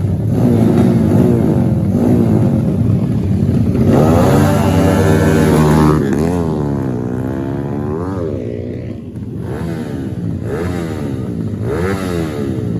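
Trail motorcycle engines revving, with the pitch climbing and falling as the throttle is worked. The loudest, highest rev comes about four to six seconds in, followed by several shorter rises and drops.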